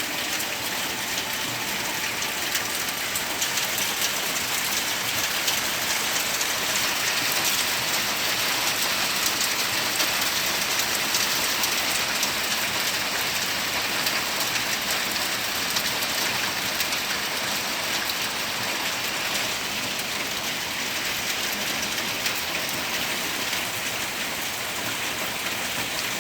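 Rain falling steadily in a storm: an even, dense hiss with the fine patter of drops.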